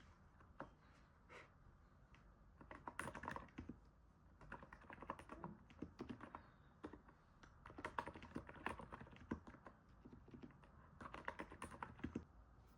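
Faint typing on a NIZ 68 Pro electrostatic capacitive keyboard: a few single keystrokes, then quick runs of soft key presses starting about three seconds in, broken by short pauses.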